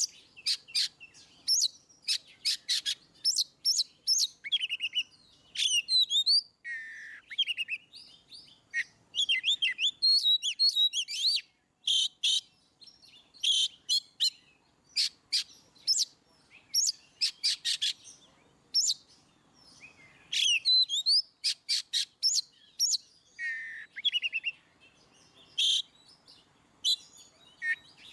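Oriental magpie-robin (kacer) singing a varied song of rapid sharp chirps, trills and whistled glides. The phrases come in quick succession with short pauses between them.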